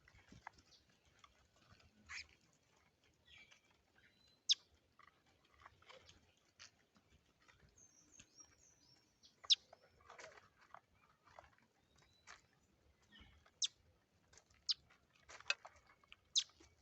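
Birds giving short, sharp chirps at irregular intervals, with a brief quick run of high twittering about eight seconds in.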